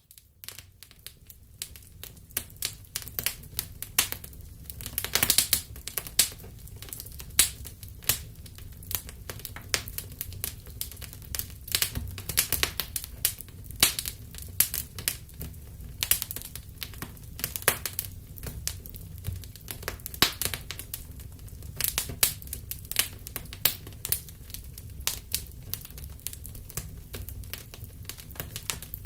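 Wood fire crackling in a fireplace: irregular sharp pops and snaps over a low steady rumble, fading in over the first second or so.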